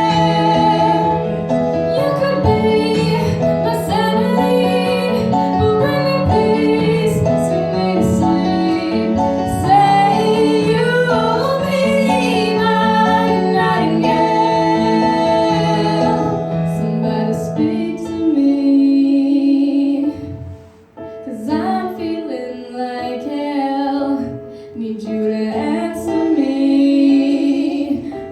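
Live female singing of a ballad with instrumental accompaniment, the music dipping briefly about two-thirds of the way through before the voice comes back in.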